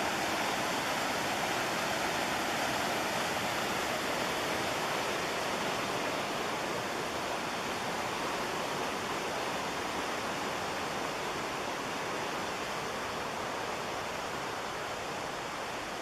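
Steady rushing of the McKenzie River's whitewater, slowly getting a little quieter.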